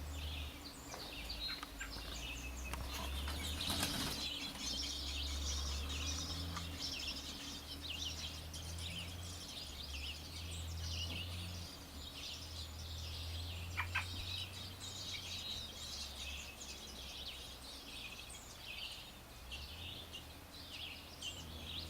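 Small birds chirping, with many short high chirps running on throughout and a short call about two thirds of the way through. A steady low rumble sits underneath.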